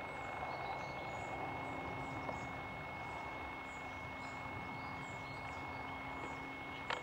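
Steady outdoor background noise with a small bird's short, high chirps repeating about once or twice a second.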